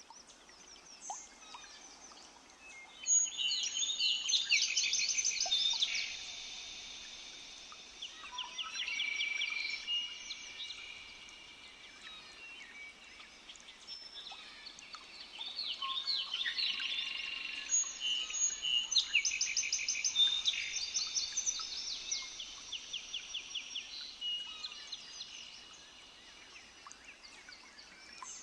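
Several forest birds singing at once, a dense mix of rapid repeated trills and chirps that swells twice, about three seconds in and again from about fifteen seconds in.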